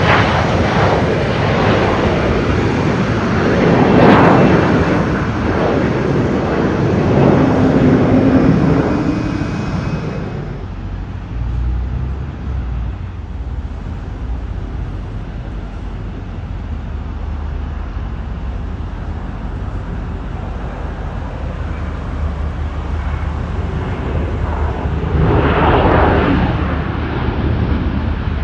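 A passing airliner's engines, loud for about the first ten seconds and then cutting down quickly to a low rumble. A brief swell of broad noise comes near the end.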